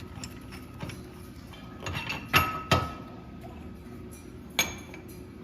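Three sharp metal-on-metal knocks from tools on Jeep front-suspension parts: two close together about two and a half seconds in, the first leaving a brief ring, and a single knock near the end.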